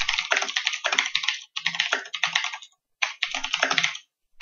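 Fast typing on a Razer BlackWidow mechanical keyboard with clicky switches: rapid runs of sharp key clicks broken by brief pauses, one about two and a half seconds in and another near the end.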